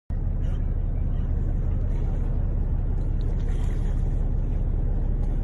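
Boat engine running steadily, a constant low rumble.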